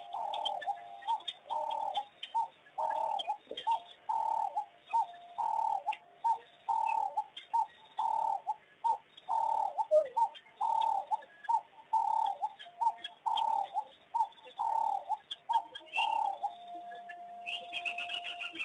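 A bird repeating one short cooing note at an even pace, about three calls every two seconds, over faint chirps and clicks. The calling stops about sixteen seconds in, leaving a faint steady tone.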